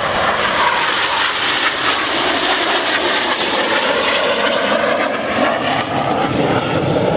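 Red Arrows BAE Hawk T1 jets flying past in formation, their turbofans making a loud, continuous roar whose pitch slowly falls as they pass.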